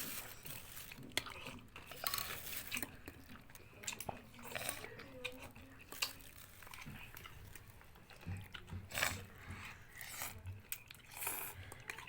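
A person chewing and biting curry instant noodles topped with crunchy Sukro coated peanuts, close to the microphone, with irregular crunches.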